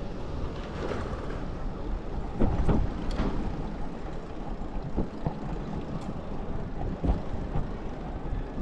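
Riding noise from an electric Citi Bike in motion: a steady low rumble with the bike rattling, and a few sharp knocks, the loudest about two and a half seconds in.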